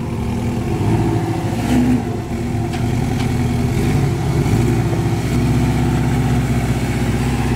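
Porsche Cayman engine running under light throttle as the car pulls away at low speed: a steady, low engine note that grows a little louder over the first few seconds, then holds.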